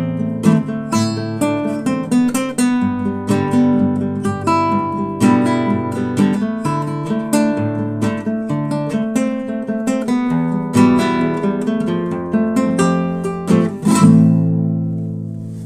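Solo acoustic guitar playing an instrumental arrangement of a song, picked notes mixed with strummed chords. Near the end it closes on a loud strummed chord that is left to ring out.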